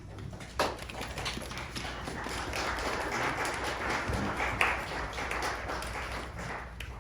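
A small audience applauding: scattered hand claps that build into steady clapping and thin out near the end.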